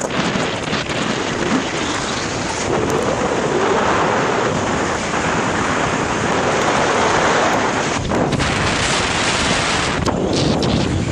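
Wind buffeting the microphone of a camera carried on a BMX bike riding fast downhill, a loud steady rushing noise, with a few short clicks and rattles near the end.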